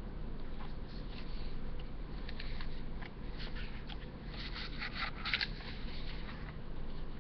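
Paper pages of a Blu-ray digibook being turned and handled: a few crisp rustles, the loudest about five seconds in, over a steady low hum.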